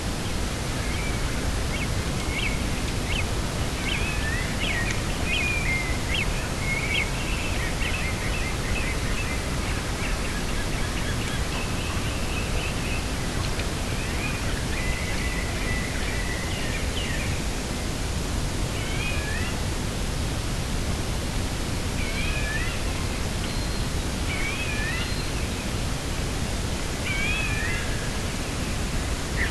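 Outdoor coastal ambience: a steady low rushing of wind and sea, with small birds chirping and twittering, busiest in the first half and more scattered later.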